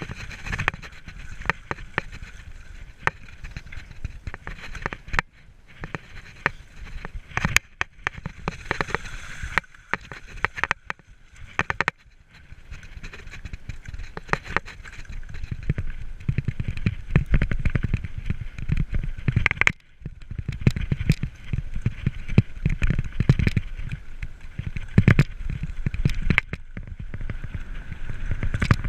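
Mountain bike riding over rough trail: a low rumble of tyres and wind with irregular rattling knocks and clicks, getting louder in the second half.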